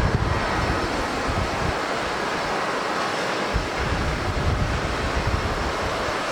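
Steady jet roar from a Boeing 737-800 airliner's engines, with gusty wind buffeting the microphone.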